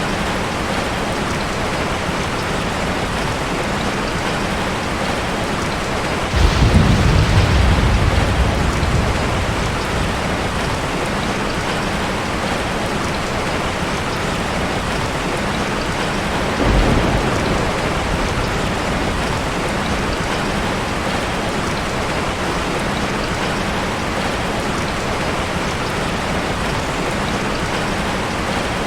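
Heavy rain falling steadily, with two rolls of thunder: a loud low one starting about six seconds in and fading over several seconds, and a softer one about ten seconds later.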